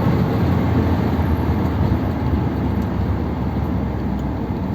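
1957 Ford Thunderbird's V8 engine running with road noise as the car is driven, a steady low rumble that eases off slightly toward the end.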